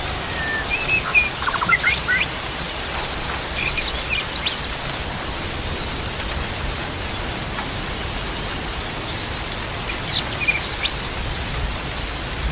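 Songbirds chirping and whistling in short, quick phrases, in two bouts, the second about ten seconds in, over a steady background hiss.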